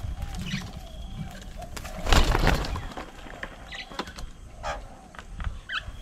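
Birds calling: a dove's low cooing in the first second or so, a brief loud rush of noise about two seconds in, and quick paired chirps near the end.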